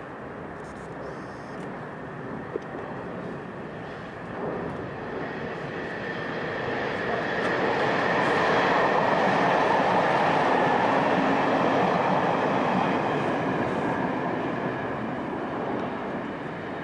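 Electric multiple unit passing close by on the tracks. The running of its wheels and motors swells to loudest about halfway through with a steady high tone, then fades away.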